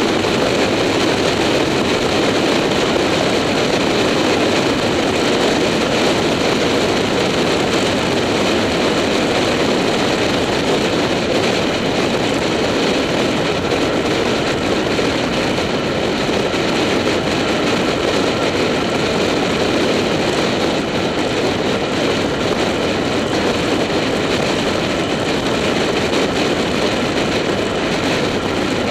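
Motorcycle riding at a steady road speed: the engine running evenly under wind noise rushing over an action camera mounted on the bike.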